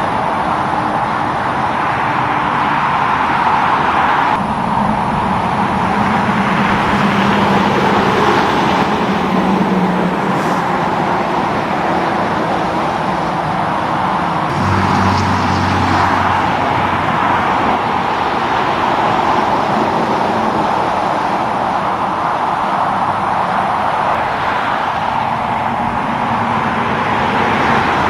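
Continuous roadside traffic: tyre and engine noise from heavy trucks and cars passing one after another. Low truck engine hums rise and fade as individual rigs go by, notably about 6 to 10 seconds in and again around 15 seconds in.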